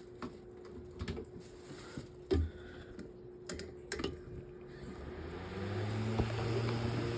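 Metal table fan being handled with a few sharp clicks and knocks, then its electric motor switched on and spinning up, settling into a steady hum with rising air noise from the blades. This is a test run of the reassembled fan, to check that the blade turns without slipping on the shaft.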